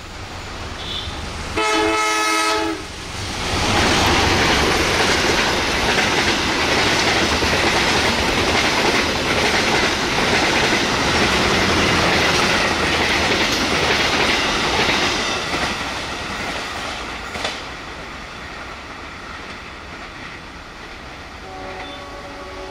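Diesel locomotive sounds its horn in one chord lasting just over a second. The passenger train then passes close by at speed, wheels clattering over the rail joints, and the noise fades as it goes away. Near the end a second train's horn sounds, fainter and farther off.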